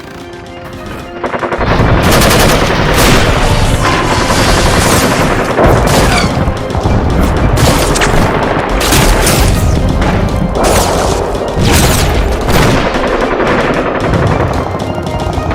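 Battle sound effects: rapid gunfire and booms over action music, starting about a second and a half in.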